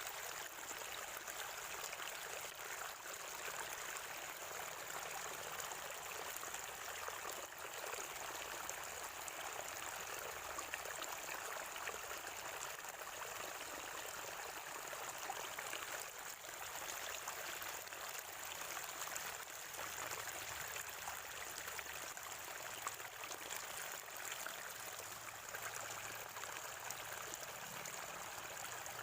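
Spring water flowing and gurgling in a small stream, a steady, even rush of water without pauses.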